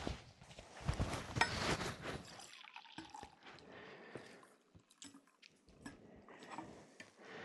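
Coffee being poured into a cup, with dribbling and scattered small clicks of handling.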